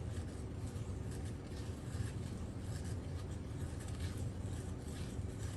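Spoon stirring a thick baking soda slurry in a container: soft, irregular scraping over a steady low hum.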